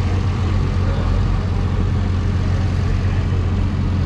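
A car engine idling steadily with a deep, even drone.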